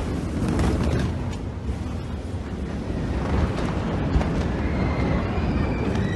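The 2020 Beirut port explosion: a loud, continuous low rumble and crackle from the blast wave and its aftermath. Faint wavering high tones appear near the end.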